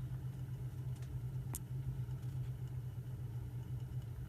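A steady low motor hum, with a single sharp click about one and a half seconds in.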